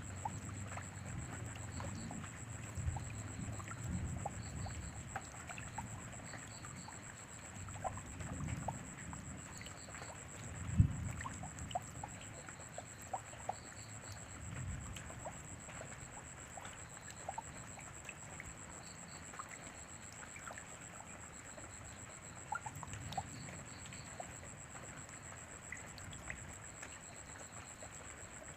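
Rain falling steadily, with scattered drops ticking and one low thud about eleven seconds in. A thin, steady high tone runs underneath.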